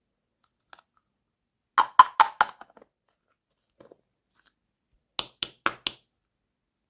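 Small plastic toy pieces clicking together: two quick runs of about four sharp clicks each, a few seconds apart.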